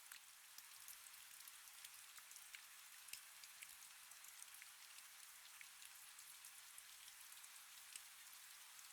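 Faint, steady rain: an even hiss with many individual drops ticking through it.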